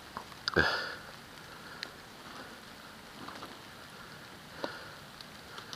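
Light rain pattering steadily on wet woodland, with one short loud noise about half a second in and a few faint clicks; no engine is running.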